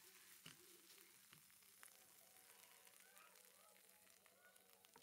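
Faint sizzling of tomato paste frying in oil in a pan as it is stirred with a silicone spatula, with a few light clicks in the first two seconds.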